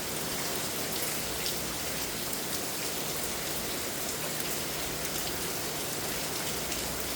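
Heavy rain pouring down steadily, a dense hiss of drops hitting the ground and surfaces, with scattered sharper drop ticks.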